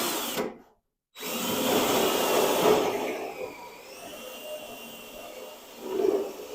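Electric drill running with its bit cutting into car-body sheet metal, a faint whine drifting in pitch over the cutting noise. It stops briefly about a second in, starts again louder, then runs on more quietly.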